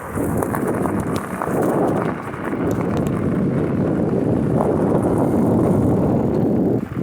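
Wind buffeting the phone's microphone while cycling: a loud, uneven low rumble that falls away sharply near the end.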